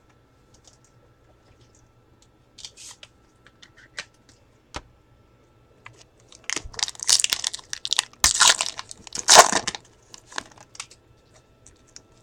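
Trading-card pack wrapper being torn open and crumpled, loud crinkling and tearing from about halfway through, after a few faint clicks of cards being handled.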